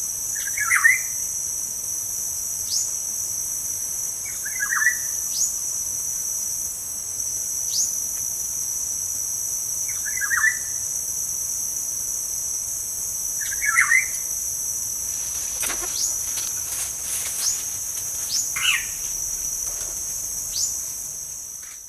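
Steady high-pitched insect drone, with a short bird chirp every three to five seconds and quick falling high calls in between.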